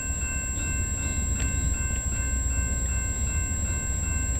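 VIA Rail passenger train departing behind a diesel locomotive, a steady low rumble.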